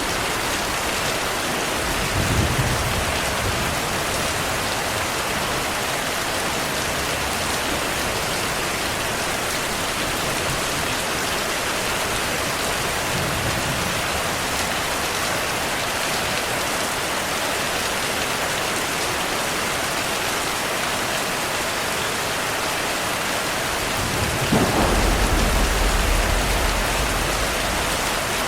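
Heavy, steady rain with thunder: a short low rumble a couple of seconds in, and a longer, louder roll of thunder near the end.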